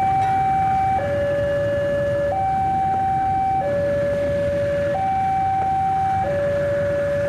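Two-tone electronic warning alarm of a railway level crossing, stepping back and forth between a higher and a lower tone about every 1.3 seconds, over a steady low rumble.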